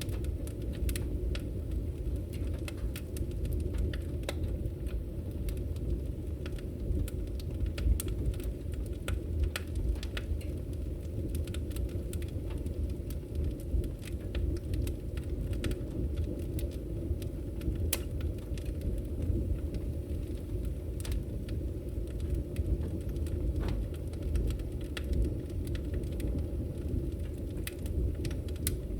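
Firewood burning: a steady low rumble of flames with scattered sharp crackles and pops at irregular moments.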